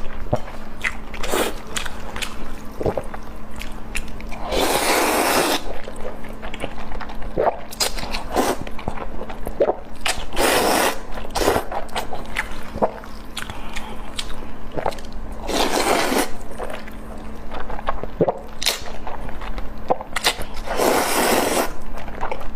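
Close-miked eating sounds: wet mouth clicks and chewing, with a longer crunchy bite about every five or six seconds.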